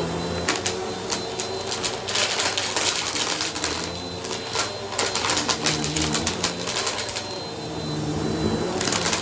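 Bissell vacuum cleaner running over a shag rug: a steady motor hum under dense crackling and rattling of debris being sucked up, heaviest about two to three seconds in and again near the end.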